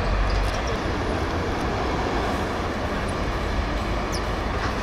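Steady outdoor background noise with a low rumble and a few faint short high chirps.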